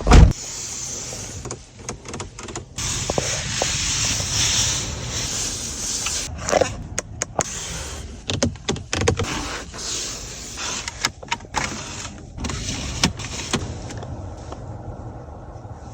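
Volkswagen Arteon's powered fittings being worked: a loud thud at the start, then a steady electric-motor whirr broken by repeated clicks and knocks.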